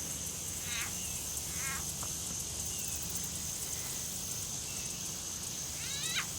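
Baby alligator calling: three short, high, chirping grunts, one about a second in, another shortly after, and a louder one near the end, over a steady high-pitched hum.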